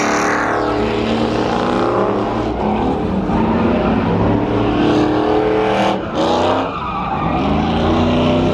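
Vehicle engine revving, rising in pitch several times, with tyres squealing as it slides.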